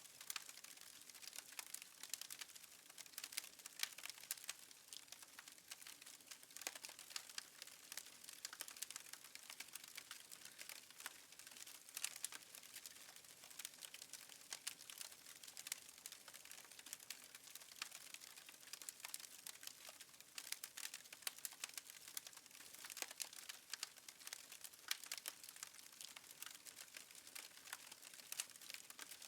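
Fireplace wood fire crackling faintly: a steady scatter of small pops and snaps over a soft hiss.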